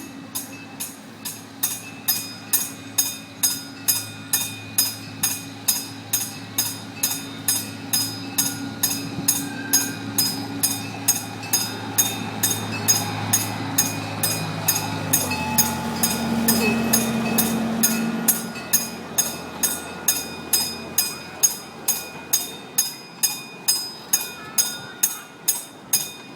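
Railroad crossing signal bell ringing steadily, about two strikes a second, as the zoo train passes. The train's engine drone grows louder, drops in pitch about halfway through, and then fades as it moves away.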